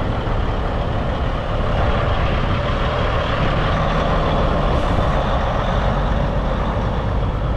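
Heavy truck's diesel engine running steadily, with a low steady rumble under a continuous wash of noise.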